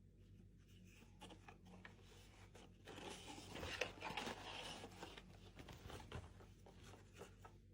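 Near silence: room tone with a few faint rustles and scrapes about three to five seconds in.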